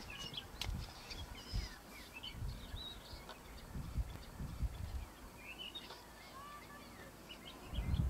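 Outdoor birdsong: several small birds chirping and twittering in short calls and quick whistled glides, over irregular low rumbles.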